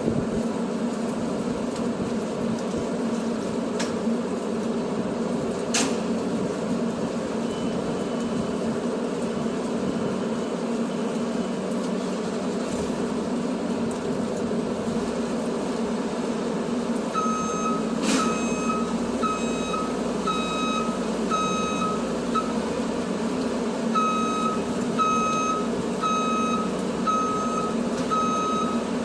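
A truck's engine running steadily; about halfway through, a reversing alarm starts beeping, about three beeps every two seconds, as the truck backs up.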